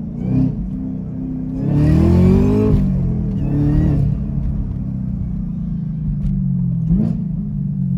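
A vehicle engine idling steadily, revved up with a rising pitch about two seconds in, with a smaller rev around four seconds and a short blip near the end.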